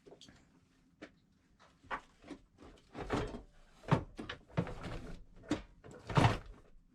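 A door being handled: a string of knocks and clunks with some sharper clicks, the loudest two thuds about four and six seconds in.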